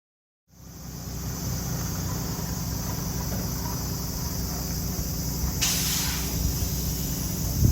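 Classic car engine running steadily through a freshly made one-off dual muffler, starting abruptly about half a second in. A brief hiss comes about six seconds in.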